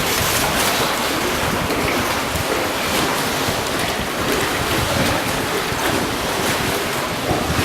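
Steady rushing noise from a small river boat ride: water moving around the boat, mixed with wind on the microphone.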